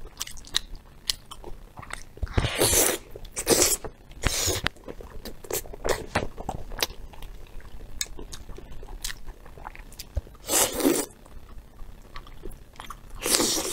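Wet chewing and biting of sticky braised beef tendon, with many small mouth clicks and a few louder half-second wet bursts.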